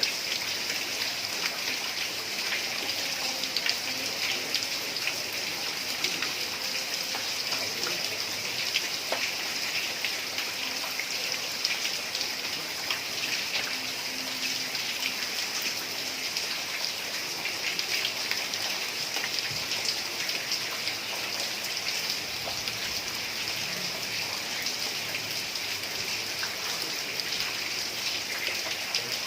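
Heavy rain falling steadily on a tiled roof: a dense, even hiss of countless small drop impacts, with no thunder.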